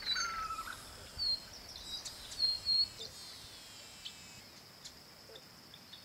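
Wild birds chirping in the background: short high chirps scattered through, with a lower, falling call near the start, over a faint outdoor hiss.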